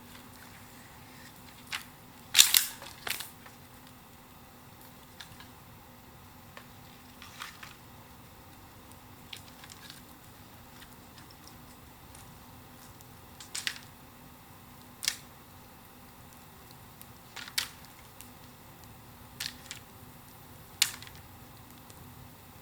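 A bonfire of bamboo and wood crackling with scattered sharp pops and snaps every few seconds over a faint steady hiss. The loudest is a quick cluster of cracks about two and a half seconds in.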